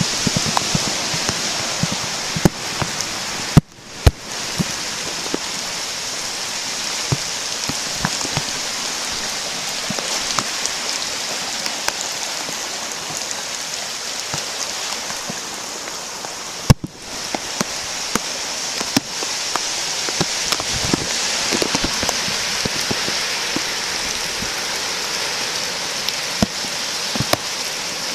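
Steady rain falling, with many individual drops ticking close to the microphone, over the continuous rush of a flooded creek. A sharp knock and a brief dip in the sound come twice, about 4 and 17 seconds in.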